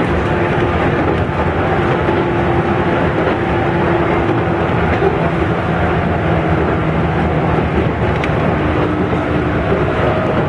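Steady running noise of a Mito Line electric train heard from inside the car: wheels rolling on the rails with a continuous rumble and a faint steady hum.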